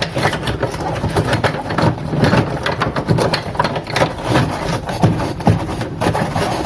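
Plastic interior panel of a refrigerator being pushed and fitted into place, with repeated clicks and knocks over a steady low hum.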